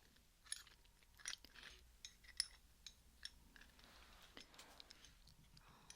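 Faint, scattered metallic clicks and light scrapes of an open-end wrench (spanner) handled close to the microphone, with a dozen or so irregular taps over a few seconds.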